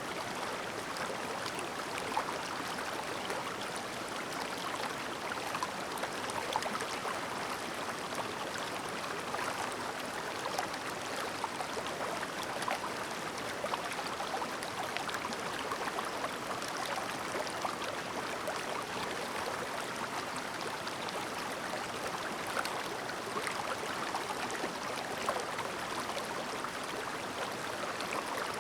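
Clear shallow mountain stream babbling over rocks: a steady, even rush of water with fine gurgles and splashes.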